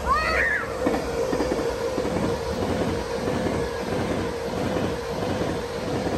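Train passing, its wheels clattering in a quick irregular run of knocks over the track, with a steady whine underneath.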